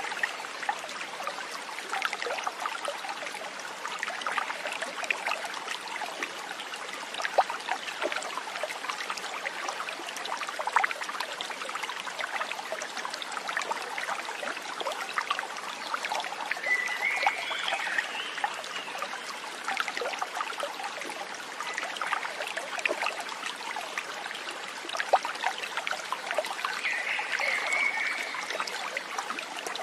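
A small stream trickling and splashing steadily. A short animal call sounds about halfway through and again near the end.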